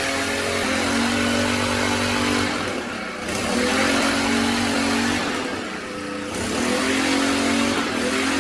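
Small four-stroke Rato gasoline engine of a restored 1.5-inch water pump running, its speed rising and dropping back about three times as the throttle is worked.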